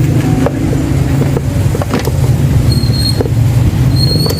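A motor vehicle engine running steadily, with a few light clicks and a short high tone twice in the second half.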